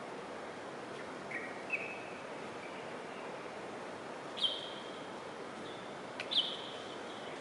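Birds calling over a steady background hiss: a few short, faint whistled notes about a second in, then two louder, higher calls about four and six seconds in.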